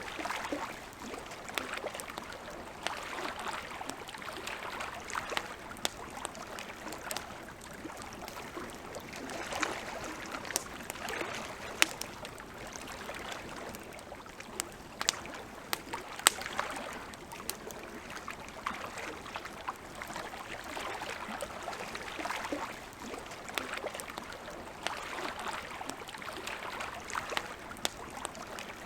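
Campfire crackling, with scattered sharp pops, the loudest about twelve and sixteen seconds in, over a hiss of lake water lapping that swells and fades every few seconds.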